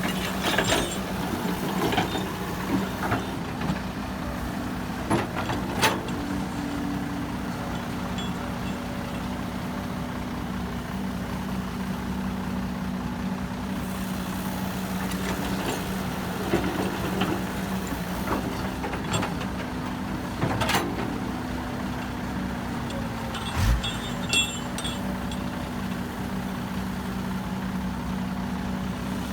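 Heavy diesel engine running at a steady pitch, with short sharp knocks and clanks every few seconds.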